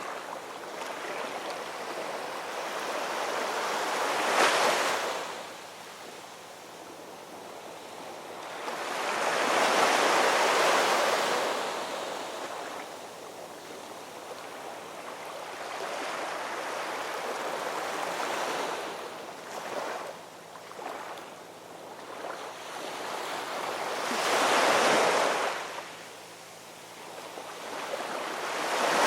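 Ocean waves breaking and washing up on the shore, each a swell of rushing noise that builds, peaks and falls away. Three waves break, about 4, 10 and 25 seconds in, with the next one building near the end and softer surf between them.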